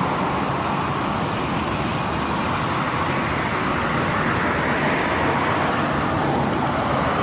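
Steady road traffic noise: a continuous rush of vehicles on the road, with no distinct pass-by or impact standing out.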